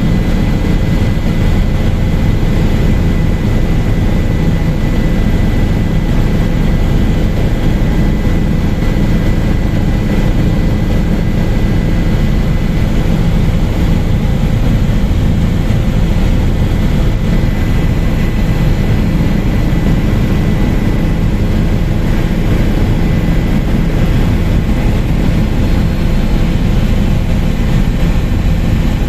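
Helicopter in cruise flight: loud, steady rotor and engine noise, heaviest in the low end, with a thin steady high-pitched tone over it.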